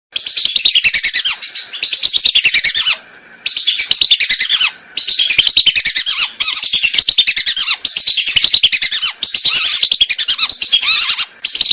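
Lesser whistling ducks (belibis) calling: loud, rapid strings of shrill whistled notes that slide down in pitch, in repeated bursts of about a second or so with brief breaks.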